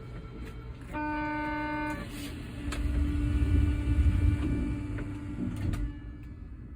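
Osaka Metro New Tram automated people mover: a steady one-second buzzer tone about a second in, typical of a door-closing warning, then a low rumble that swells for about three seconds and fades near the end.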